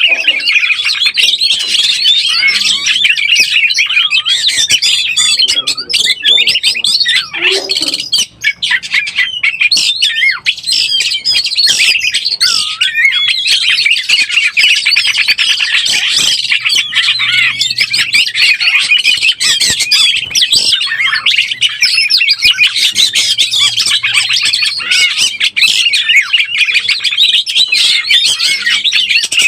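Oriental magpie-robin (kacer) singing without a break: a loud, dense run of rapid, varied whistles and chirps. It is the song of a bird in breeding condition.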